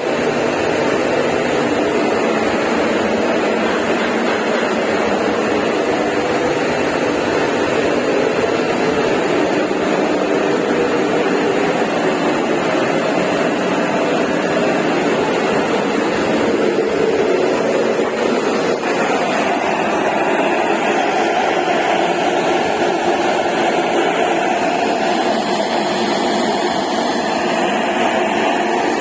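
Industrial coil-type steam boiler running: a loud, steady burner and blower noise with a faint hum, its tone shifting slightly about two-thirds of the way through.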